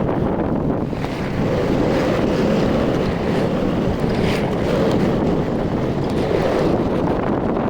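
Steady wind rush buffeting the microphone of a Rusi RFI 175 motorcycle riding along at speed, with riding noise beneath.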